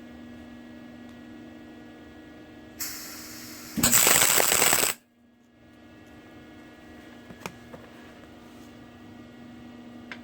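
Arc welding on steel: a short weld of about a second of loud, even crackling, likely a tack on the axle truss, breaks in about four seconds in and cuts off sharply. A short high hiss comes just before it. A steady electrical hum runs underneath before and after.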